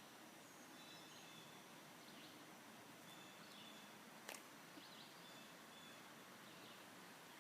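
Faint outdoor ambience with distant birds giving short, repeated chirps over a steady hiss, and a single sharp click about four seconds in.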